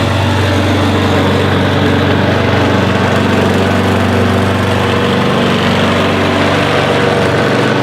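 A motor-vehicle engine running steadily at an even speed, with no revving or change in pitch.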